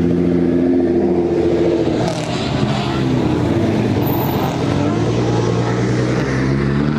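Car engines running loudly, their engine tones dropping in pitch about two seconds in and then climbing again as an engine revs up.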